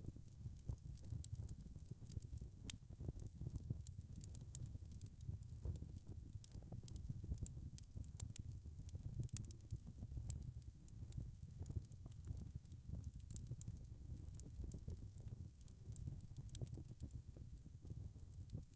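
Wood fire crackling, with many small irregular pops and snaps over a low, steady rumble.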